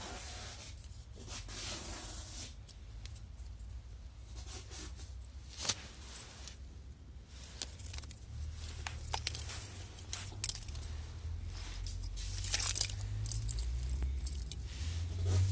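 Plastic connectors and loom of a car engine wiring harness being handled and turned over, rustling and crackling with scattered sharp clicks, over a low steady rumble.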